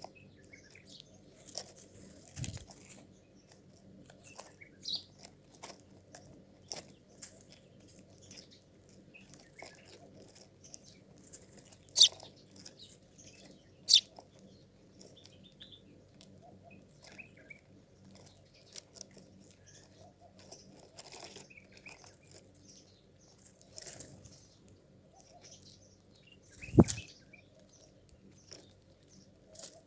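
Small birds chirping faintly, with scattered short clicks and crunching sounds throughout. Three sharp clicks stand out, about 12, 14 and 27 seconds in.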